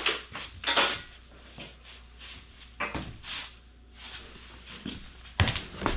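Washing machine pedestal drawer being worked off its slides: a series of short scrapes and clunks, the loudest at the start, about a second in, and near the end.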